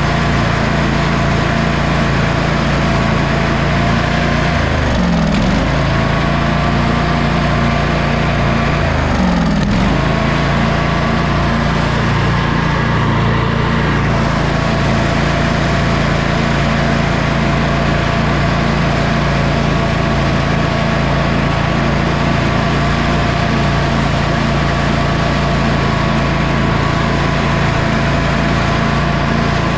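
Sabre by John Deere lawn tractor's twin-cylinder engine running steadily on both cylinders during a test drive, after a fuel fault that had left one cylinder dead was cured. The pitch dips briefly and recovers twice, about five and nine seconds in.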